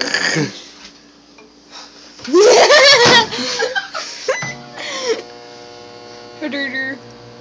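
Microwave oven switched on about halfway through and running with a steady electrical hum. Before it starts there is loud laughing and squealing.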